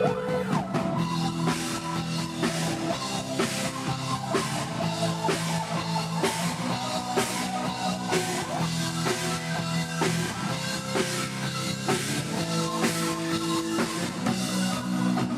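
Live band music with drum kit, bass and electric guitar playing a steady beat, an instrumental passage without singing.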